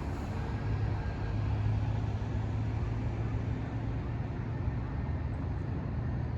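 Scania Astromega double-decker bus running, heard as a steady low engine hum with a wash of road and cabin noise.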